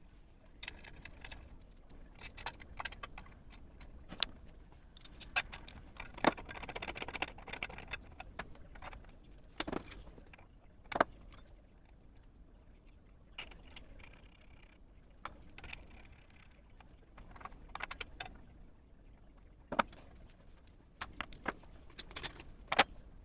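Hand tools and small metal parts being handled, clinking and knocking irregularly, with a stretch of rustling about six seconds in and a quick cluster of clicks near the end.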